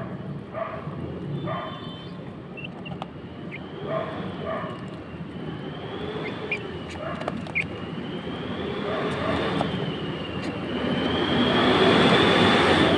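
A large vehicle approaching and growing loud over the last few seconds, with a wavering high whine above its noise; short repeated yelps in the first few seconds.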